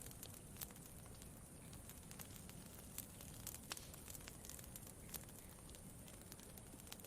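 Campfire crackling faintly: irregular sharp pops and snaps, a few each second, over a low steady rumble.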